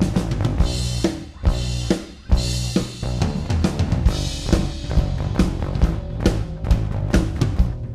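Acoustic drum kit and bass playing a groove together: kick and snare hits over sustained bass notes, with cymbal crashes about a second in, at about two and a half seconds and at about four seconds.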